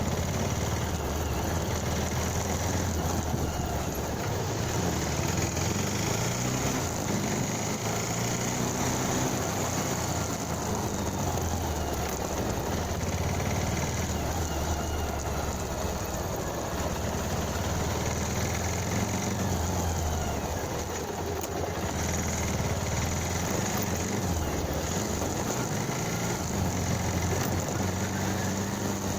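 Motorcycle engine running while riding, its pitch rising and falling as the engine speed changes, over steady wind and road noise.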